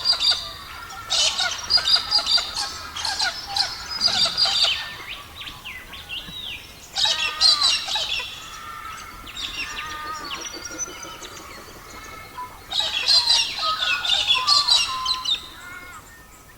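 Songbirds singing: quick chirps and warbling trills in four bursts of a second or two each, with quieter gaps between them.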